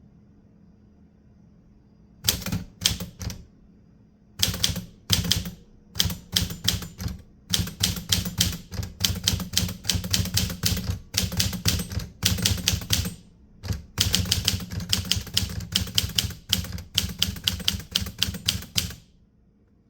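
Typewriter keys being struck in quick runs of keystrokes, starting about two seconds in and stopping just before the end, with short pauses between the runs.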